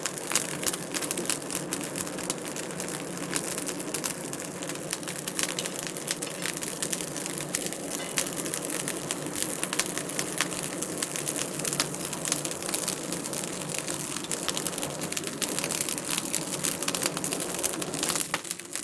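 Wood fire crackling in a fireplace, with many small irregular pops and snaps over a steady low hiss of the burning logs.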